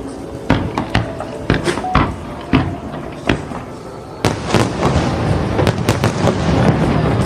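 Fireworks going off: sharp bangs at irregular intervals, becoming a dense, continuous run of cracks and bangs about four seconds in.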